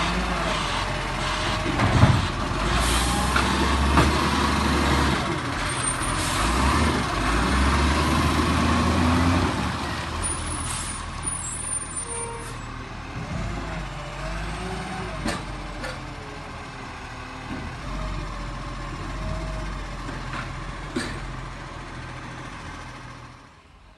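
Garbage truck at close range: its diesel engine rumbles under load, with air-brake hisses and several sharp clunks and knocks. It is loudest over the first ten seconds, then runs quieter and cuts off just before the end.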